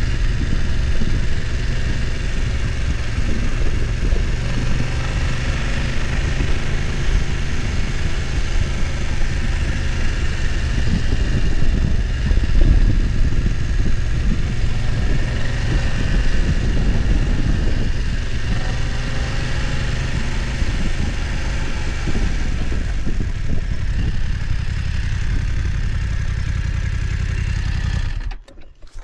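BMW F900 XR's parallel-twin engine running at low, steady revs while the motorcycle climbs, with some knocking and rumble underneath. The sound drops out sharply just before the end.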